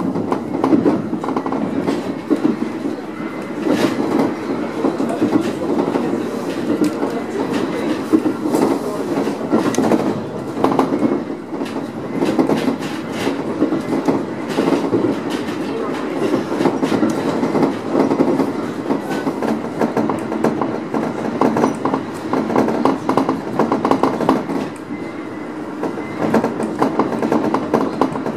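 Three-car electric multiple unit running along the line, heard from the driver's cab: steady rolling noise of the wheels on the rails, with many short clicks.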